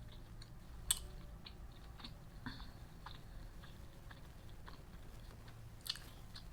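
Close-up chewing of food, quiet, with a few short sharp mouth clicks scattered through it.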